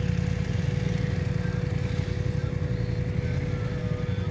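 BMW R1200 boxer-twin motorcycle engine running steadily at low revs, a low rumble.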